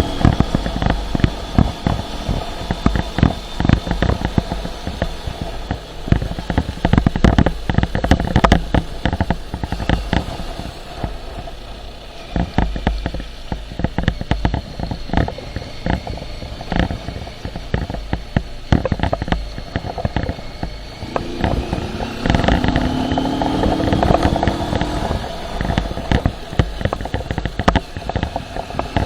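Motorcycle running on the move, with wind buffeting the microphone in a constant crackle of thumps over a low rumble. About 22 seconds in, a rising engine tone is heard for a few seconds as it accelerates.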